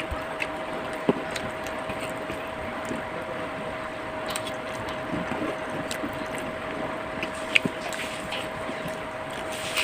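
Eating sounds, with a few sharp clicks that fit cutlery on a plate and soft crackly chewing, over a steady background hum with a constant tone.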